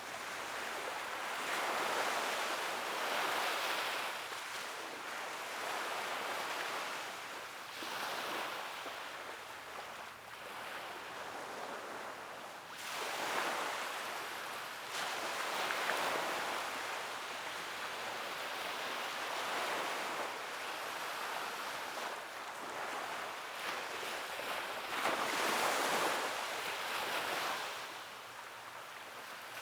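Sea waves breaking and washing up a beach: a steady wash of surf that swells and eases every few seconds, with several louder breakers.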